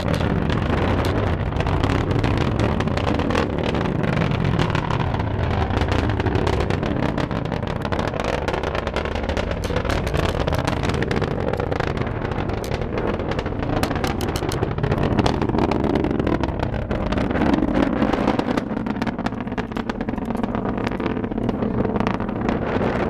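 Rumble of an Antares rocket's first stage, two RD-181 engines, heard from a distance during ascent, a deep uneven roar with frequent sharp crackles. Wind buffets the microphone throughout.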